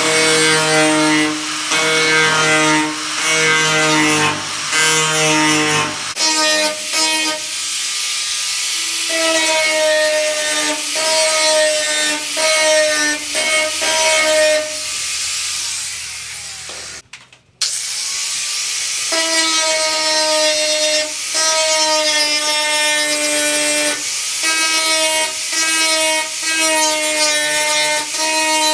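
Power grinder grinding down the welded steel patch on a truck's wheel arch, a high whine in repeated passes of about a second each, the pitch sagging slightly as it bites. The sound drops out briefly about two-thirds of the way through.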